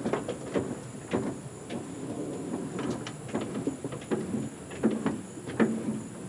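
Irregular clicks and knocks of parts being turned and worked loose by hand on a Yamaha outboard motor, with small plastic and metal pieces rattling.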